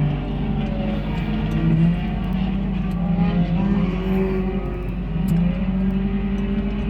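Several sport compact race cars' engines running at racing speed on a dirt oval, their pitches overlapping and rising and falling as they accelerate and lift.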